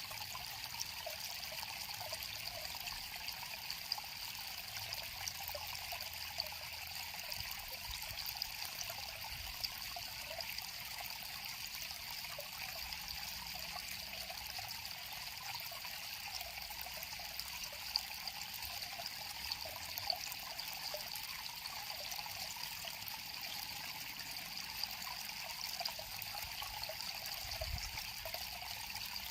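A small river flowing steadily, water trickling and splashing over stones.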